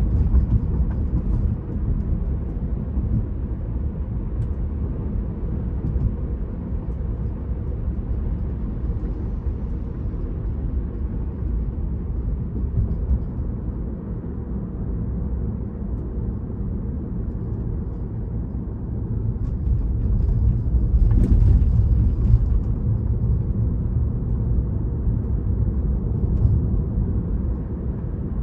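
Road and tyre noise of a Tesla driving at about 40 mph, heard inside the car: a steady low rumble with no engine note, swelling for a few seconds about two-thirds of the way in.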